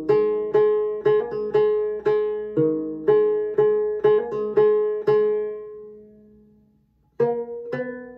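Five-string banjo picking a slow melody phrase, about two notes a second with a few quick grace notes. The last note rings out and fades about five seconds in, and after a short gap the playing starts again near the end.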